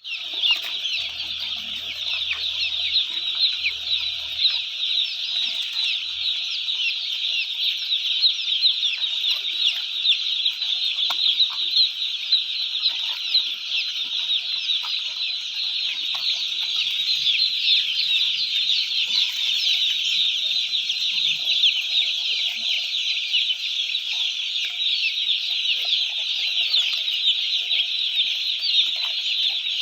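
Many chickens calling together in a steady, dense chorus of overlapping high-pitched peeps and chirps that never lets up.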